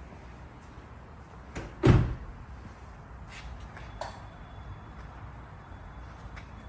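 A car door shut with one loud thud about two seconds in, followed by a few small clicks and knocks. A faint, steady high tone sounds through the second half.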